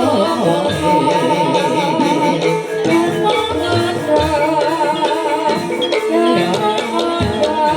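Live jaranan dangdut music: a wavering, ornamented melody over drums and other instruments, with singing.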